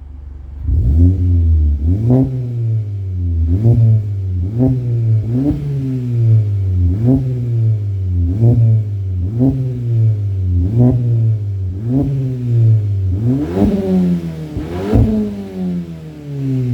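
Car engine through an aftermarket 63 mm exhaust with a downpipe, resonator and muffler, revved in quick throttle blips about once a second. Each blip rises sharply and falls back, with two bigger revs near the end.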